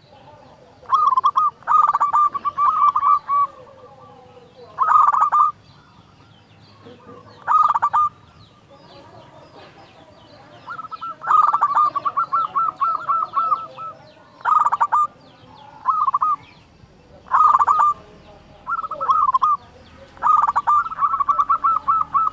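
Zebra dove (perkutut) cooing loudly, repeating its phrase of quick rolling notes in bursts of a second or two with short pauses between. Fainter chirps of small birds sound behind it.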